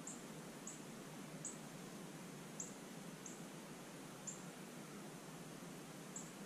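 Steady, quiet background hiss with a small bird's short, very high call notes, about seven of them at uneven intervals.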